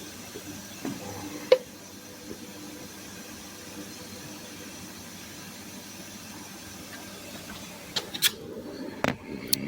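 IPSO HF55 washing machine running with a steady hiss, a sharp click about a second and a half in, and several clicks and knocks near the end.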